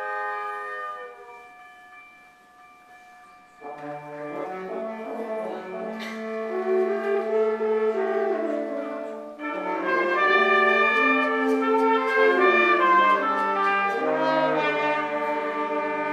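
Orchestral music led by brass. A held chord fades out over the first couple of seconds. Brass and orchestra come back in after a short quiet stretch and get louder about ten seconds in.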